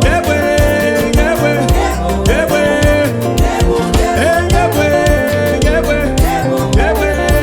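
Upbeat African-style band music with a steady beat: drums, bass and gliding melodic lines.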